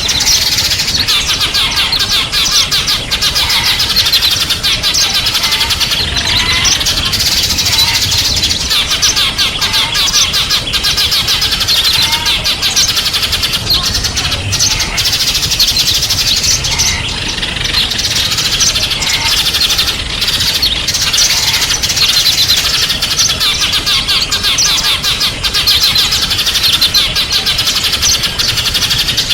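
A flock of small songbirds chirping and twittering densely and without a break, many high rapid notes overlapping.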